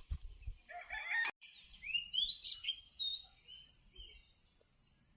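A rooster crows briefly and is cut off about a second in. Small birds then chirp in short rising calls over a steady high-pitched drone.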